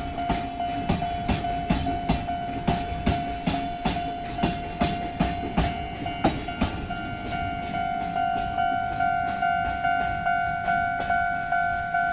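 Loaded Chichibu Railway ヲキ limestone hopper wagons rolling slowly past, their wheels clacking regularly over the rail joints. A steady ringing tone sounds over the train throughout and turns into an even pulsing ring from about halfway through.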